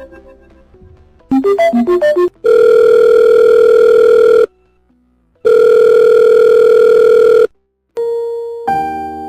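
Electronic phone call tones: a quick run of short beeping notes, then two long steady tones of about two seconds each, a second apart, like an outgoing call ringing. Piano-like music starts near the end.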